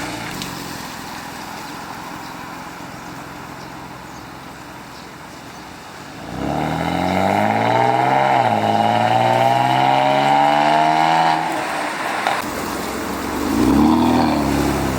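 Hyundai Grandeur HG 3.0 LPi V6 exhaust through a Sematech variable-valve (MDRS) muffler: idling for about six seconds, then revved up and held at raised revs for about five seconds before dropping back, with one short rev blip near the end.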